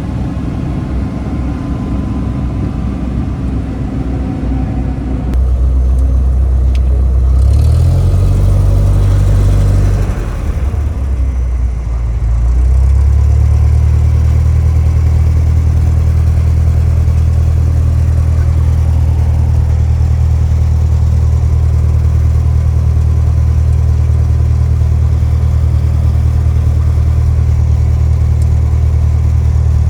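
Small piston airplane engine droning; its pitch shifts a few times between about five and thirteen seconds in, then holds steady.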